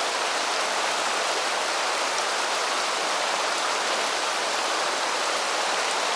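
Mountain stream rushing steadily: an even, unbroken hiss of flowing water.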